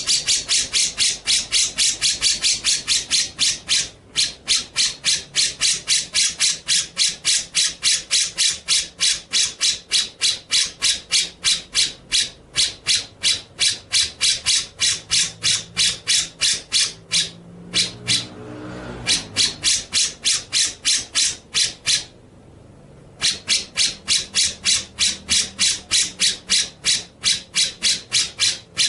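A songbird giving a fast run of harsh, rasping notes, about three or four a second, in long runs broken by a few short pauses.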